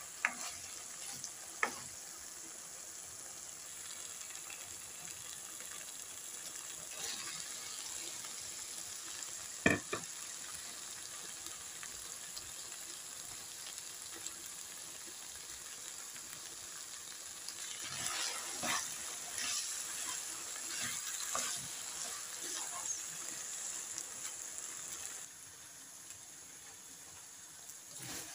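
Chicken masala sizzling steadily in a nonstick wok, with a spatula stirring, knocking and scraping against the pan. There are a few sharp knocks, the clearest about ten seconds in, and a run of scraping strokes in the second half. The sizzle drops away near the end.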